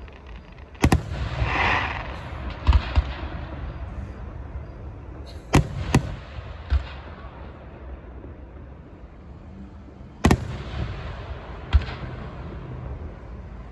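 Fireworks going off: about eight sharp bangs in irregular bunches. A crackling hiss follows the first bang.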